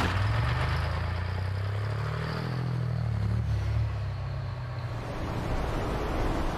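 Racing truck engines running on a circuit, the pitch rising and falling around the middle as they rev; from about five seconds in, a rougher, even rushing noise takes over.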